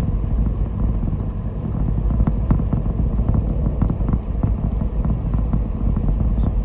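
A car driving along a road: steady low rumble of tyre and engine noise, with faint ticks here and there from the road surface.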